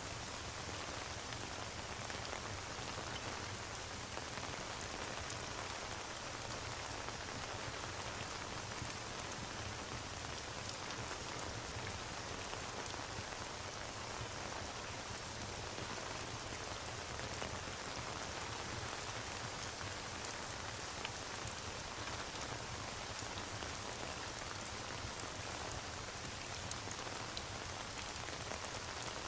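Steady rain ambience, an even hiss of falling rain, with faint scattered crackles from a fireplace mixed in.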